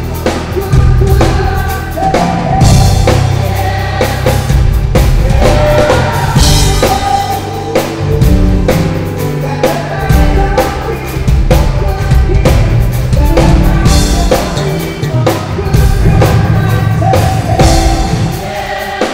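Live band playing: an electric bass line moving through low notes under a drum kit with kick and snare, with other pitched instruments above.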